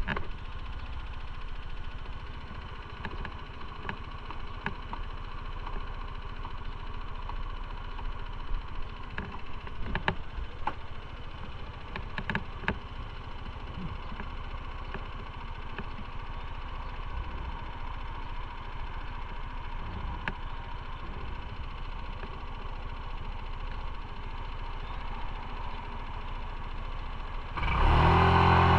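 Motorcycle engine idling low and steady, with a few light clicks around the middle. Near the end the engine suddenly gets much louder, revving up as the bike pulls away.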